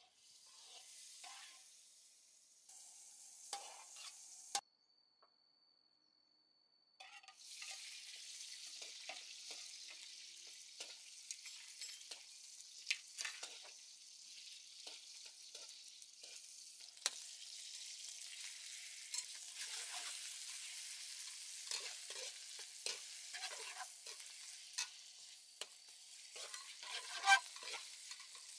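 Red onion and sliced beef sizzling in hot oil in a wok, stirred with a metal slotted spoon that clicks and scrapes against the pan. The sizzling breaks off for a couple of seconds about five seconds in, then runs on steadily.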